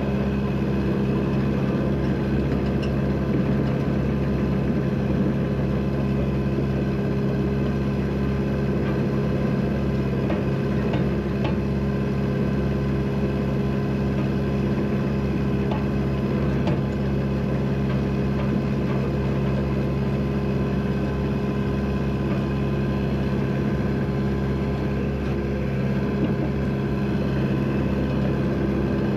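A vehicle engine running steadily at an even speed throughout.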